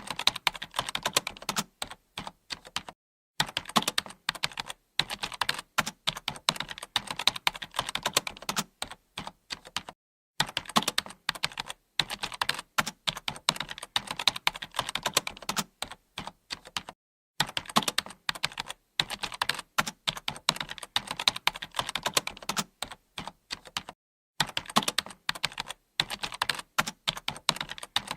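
Computer keyboard typing: quick runs of key clicks, broken by a few brief pauses.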